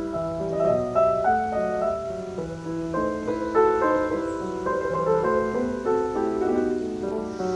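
Piano music: a flowing run of notes over held lower notes.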